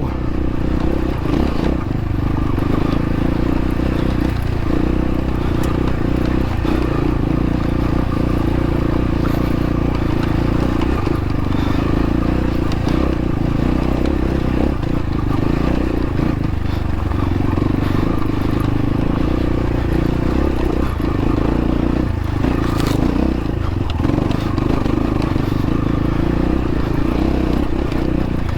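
X-Pro Templar X dirt bike engine running steadily at low speed over rough, rocky trail, with scattered short knocks and clatter from the bike over the rocks.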